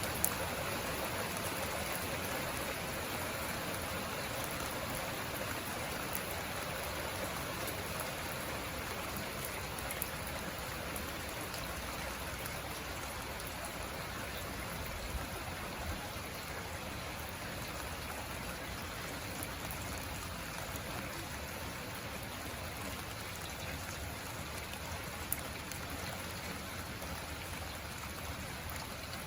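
Steady rain falling, an even hiss of drops with a few sharper single drop hits scattered through it.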